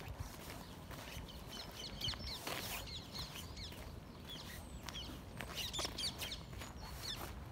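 Small birds chirping: quick, high chirps in two clusters, about two seconds in and again about six seconds in.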